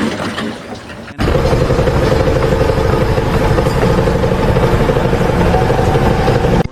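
A loud engine running steadily, with a deep rumble and a steady hum. It starts abruptly about a second in.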